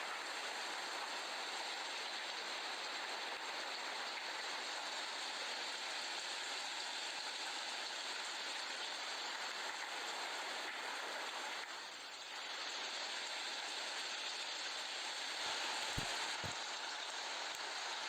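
Heavy monsoon rain pouring, a steady hiss of water. It dips briefly about two-thirds of the way through, and two short knocks come near the end.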